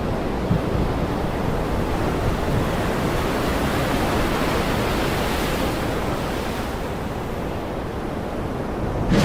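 Heavy rain pouring steadily, a dense even hiss with a low rumble underneath; it swells suddenly near the end.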